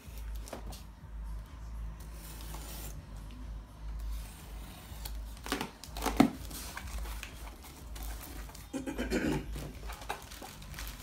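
Packaging and plastic bags rustling and crinkling as cables and accessories are taken out of a box, with a sharp knock about six seconds in, over a steady low hum.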